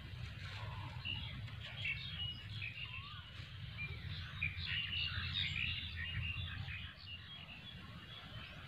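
Small birds chirping, with many short overlapping calls. Beneath them runs a steady low rumble that drops away about seven seconds in.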